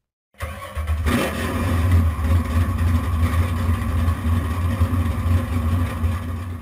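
Car engine sound effect: an engine starts about half a second in, revs briefly, then runs with a loud, deep, steady rumble.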